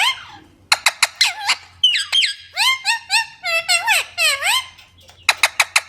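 Parrot giving a rapid series of shrill, squeaky calls and clicks, each call swooping up and down in pitch, with short pauses between the bursts.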